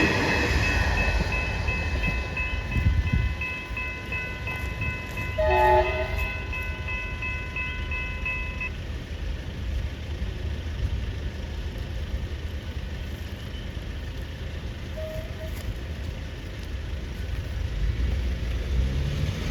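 Level crossing bells ringing steadily while a train runs through the crossing, with a short train horn blast about six seconds in. The bells stop about nine seconds in, leaving a low rumble of road traffic.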